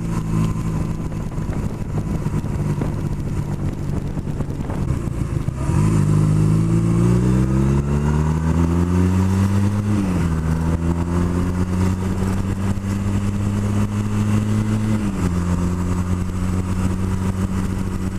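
Motorcycle engine heard from the rider's own bike, running low and steady, then accelerating: its pitch rises for about four seconds, dips with an upshift, holds, and dips again with a second upshift before settling into steady cruising.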